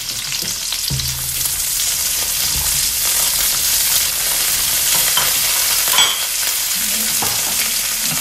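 Chopped onion sizzling in hot oil in a steel wok, stirred with a spatula that scrapes through the pan. A steady sizzle, with a sharp click about six seconds in.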